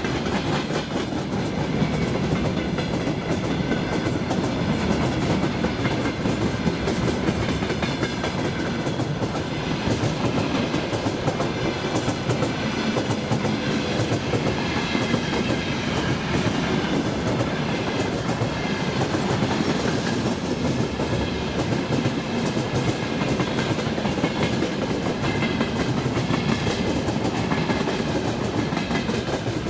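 Loaded freight train of gondola wagons rolling past at speed: a steady rumble with wheels clattering over the rail joints, and a faint wavering high-pitched whine above it.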